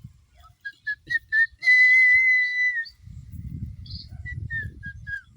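Whistling. It starts with a few short notes near one pitch, then comes one long held note, the loudest part, about a second long. More short notes, dropping slightly in pitch, follow over a low rumble in the second half.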